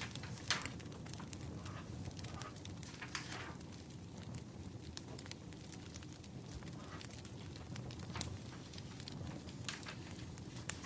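Wood fire crackling: scattered sharp pops and snaps over a steady low rumble, with the strongest pops about half a second in and near the end.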